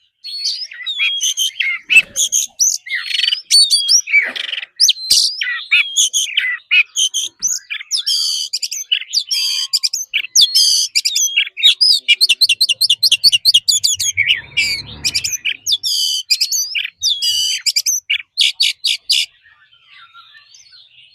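Oriental magpie-robin singing a loud, varied song of whistles, slurred notes and fast repeated trills, stopping abruptly about nineteen seconds in.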